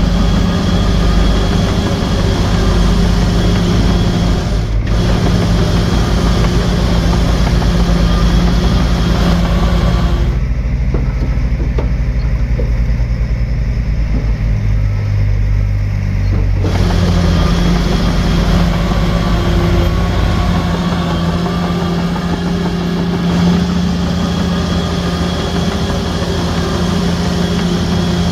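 Heavy earthmoving machinery's diesel engine running steadily with a deep, even drone. About ten seconds in, the higher noise drops away for some six seconds, leaving only a low rumble, then comes back.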